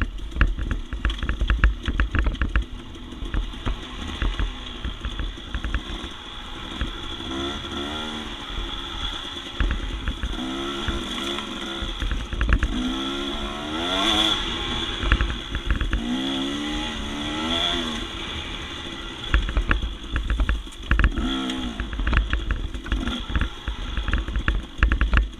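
Dirt bike engine revving up and down in repeated swells as the bike works along rough, steep single track, with clatter and knocks from the bike over the rough ground and bursts of low rumble.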